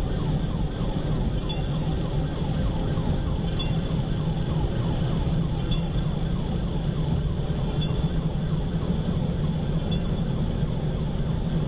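Police car siren on a fast yelp, about four to five sweeps a second, over a heavy low rumble of engine and road noise at high speed.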